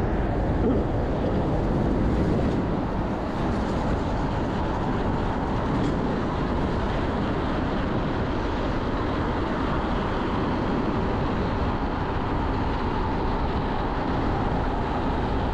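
Steady rushing wind and road noise from an electric bike ridden fast, at about 30 mph, along a busy road.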